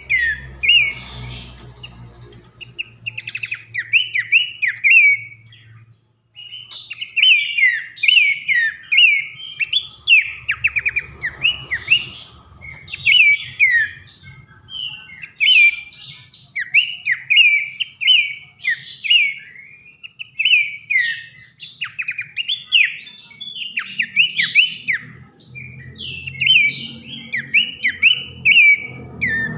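A pelanduk semak babbler singing a loud, fast string of whistled chirps, each note slurring downward. The song breaks briefly about six seconds in, then carries on.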